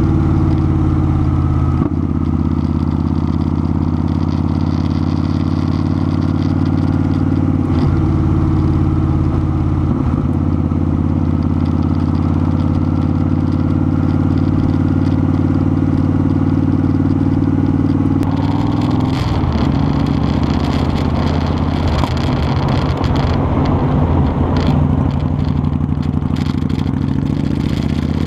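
Motorcycle engine running at a steady pitch. About two-thirds of the way through, the even engine note breaks up into a rougher, noisier sound.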